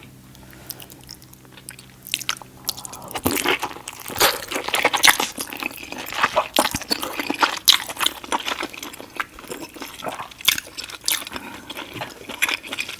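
Close-miked wet, saucy eating sounds of a seafood boil: dense, irregular sticky smacks and crackles of food being handled and chewed. A low steady hum sits under the first few seconds.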